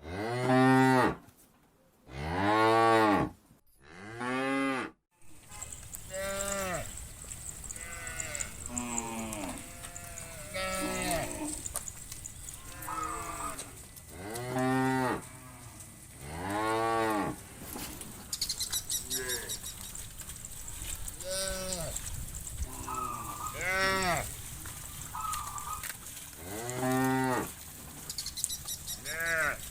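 A herd of cattle mooing: long, arching calls one after another. Three loud moos with short silences between them open the sound, then many cows call over each other, some low and some higher-pitched.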